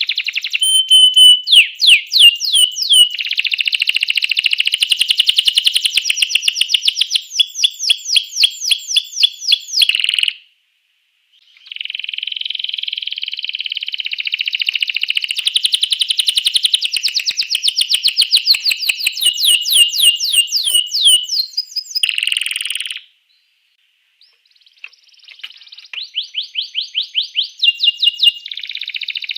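Domestic canary singing long phrases of fast, rapidly repeated sweeping notes and trills. The song breaks off for a second or two about ten seconds in and again about twenty-three seconds in.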